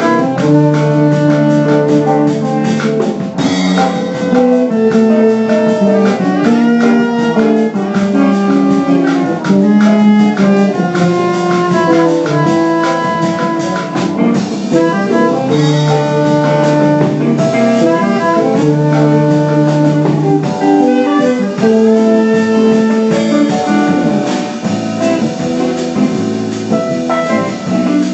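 Jazz band playing a bossa nova tune: a saxophone holds long melody notes over guitar and drum kit.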